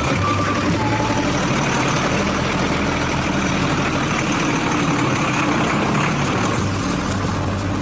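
Heavy vehicle engine running steadily, with a low, constant hum.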